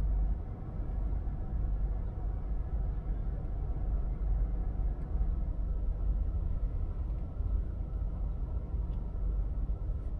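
Steady low rumble of a car in motion, road and engine noise with no distinct events.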